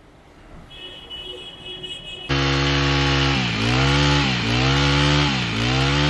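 Four-stroke brush cutter engine starting abruptly about two seconds in and running fast, its speed dipping and picking back up about once a second.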